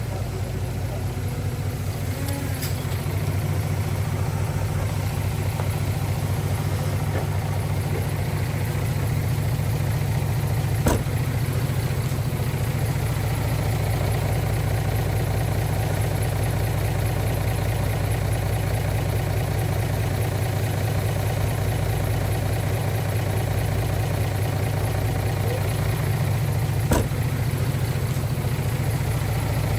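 Heavy earthmoving equipment's diesel engine running steadily at a low, even speed, with two sharp clacks: one about eleven seconds in and one near the end.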